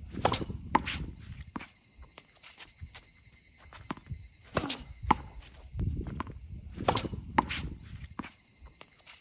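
Tennis rally practice: sharp pops of a tennis ball struck by a racket and bouncing on the court, coming in pairs about half a second apart, three times, with shoe scuffing and footsteps on the court between them.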